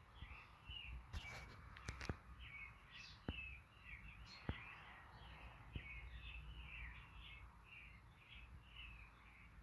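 Faint chirping of small birds, many short calls in a row throughout, over the low hum of a ceiling fan running on medium speed; a few sharp clicks in the first half.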